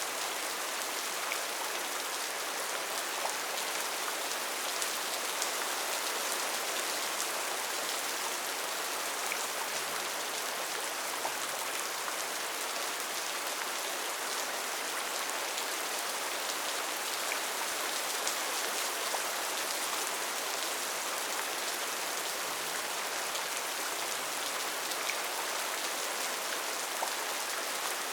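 Steady rainforest rain falling, an even hiss with individual drops ticking now and then.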